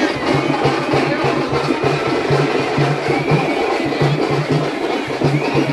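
Drums beating a fast, steady rhythm, with a haze of voices behind.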